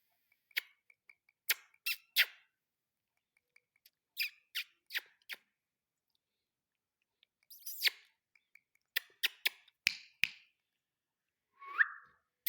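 Ringneck parrot making short, sharp calls and clicks in irregular bunches with pauses between, and one brief rising whistle near the end.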